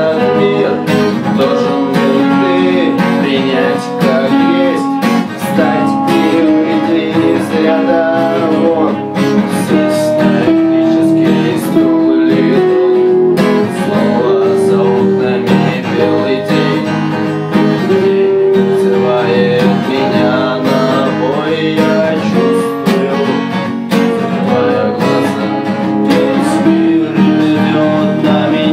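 Acoustic guitar strummed in a steady rhythm, playing the chords and melody of an instrumental passage of a song.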